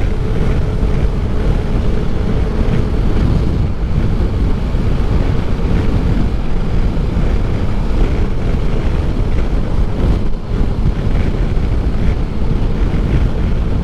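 Wind buffeting the microphone of a motorcycle rider at road speed, with the Honda Pan European's V4 engine running steadily underneath. Near the end of the tenth second the noise briefly drops.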